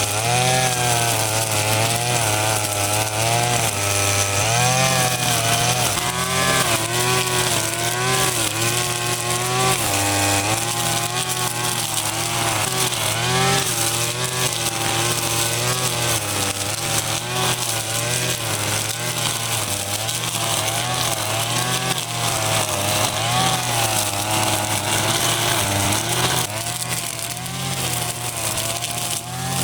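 A small engine running and revving up and down over and over, its pitch rising and falling every second or two.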